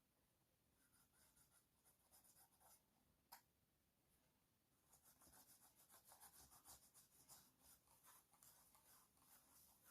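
Near silence, with faint, scratchy rubbing or rustling about halfway through and a single soft click a little over three seconds in.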